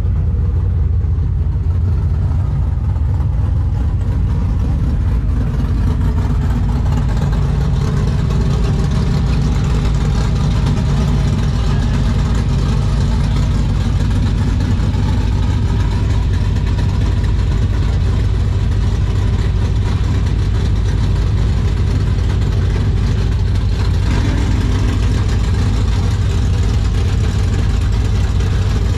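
Truck engine running steadily at a constant speed, a loud, even deep rumble with no revving or launch.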